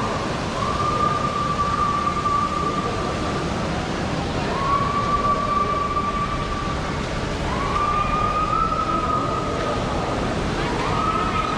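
A siren-like high tone, sounding four times in long blasts of about three seconds, each rising quickly at the start and then held, over a steady background rumble.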